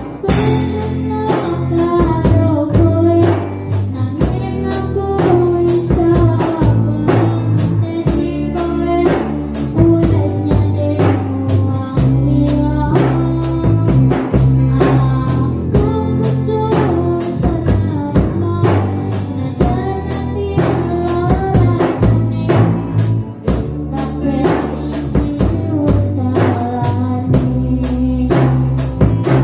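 A band playing a song without words: a drum kit keeps a steady beat under a moving bass line and a lead melody.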